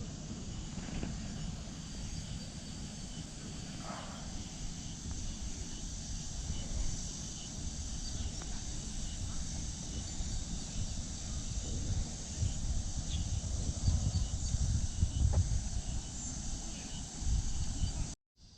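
Steady chorus of insects buzzing, over an uneven low rumble; the sound drops out briefly near the end.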